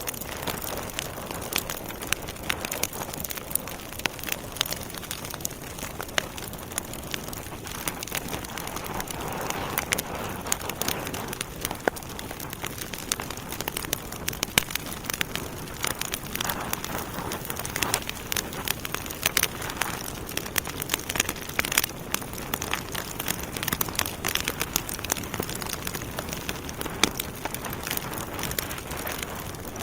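Wood fire burning in a fireplace: a steady hiss with frequent sharp, irregular crackles and pops from the logs.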